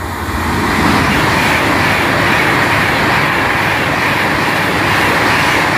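Class 390 Pendolino electric train passing close by along the platform: a loud, steady rush of wheels on rail and air.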